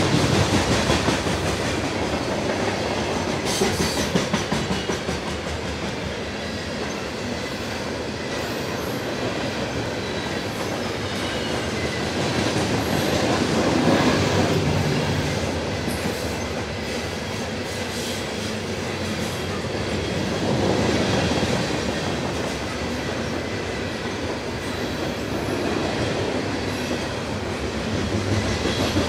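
A CSX coal train's freight cars rolling past at close range: a steady rumble with the clickety-clack of wheels over rail joints, swelling a little now and then.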